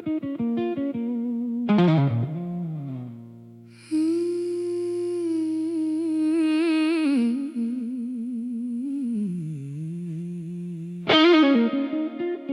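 Slow blues music, an electric guitar solo: long sustained notes with wide vibrato and bends, with a freshly picked phrase about two seconds in and another near the end.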